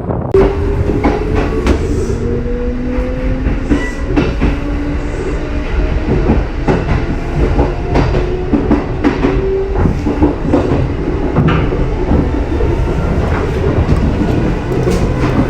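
Kintetsu electric train cars (1436, 2410 and 2430 series) running past, wheels clacking over the rail joints in a steady string of clicks over a low rumble. A faint motor whine rises slowly in pitch over the first several seconds.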